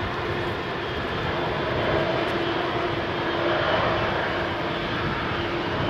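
Jet engines of a Boeing 737-400 (CFM56 turbofans) running, a steady roar with a constant hum under it.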